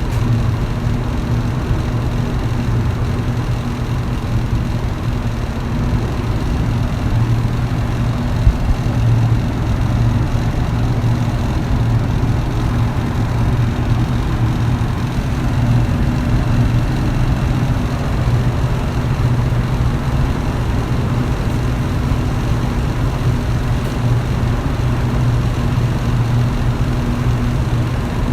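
Electric fan running steadily: a low motor hum under a constant rush of air.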